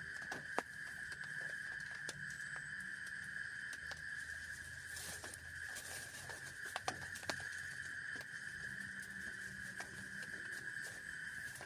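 Scattered raindrops tapping, a few sharp ticks standing out, over a steady high-pitched drone.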